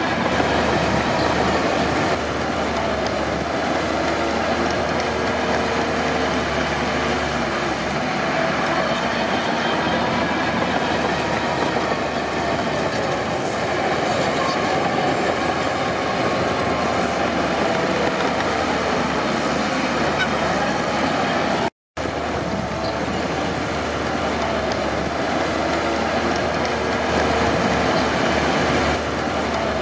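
Crawler bulldozer working: diesel engine running steadily, with the squeal and clatter of its steel tracks. The sound cuts out for an instant about three-quarters of the way through.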